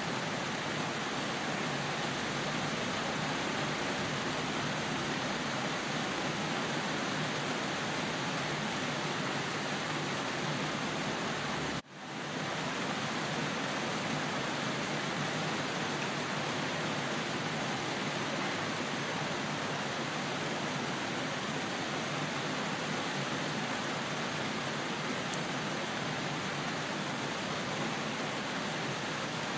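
Steady rain, an even hiss with no breaks except a brief dip about twelve seconds in, where the sound drops away for an instant and swells back.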